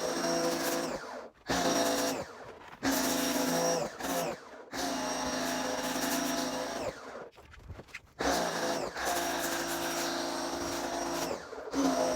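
Electric pressure washer running with a steady motor whine and spray hiss. It stops and starts again several times as the trigger is released and squeezed.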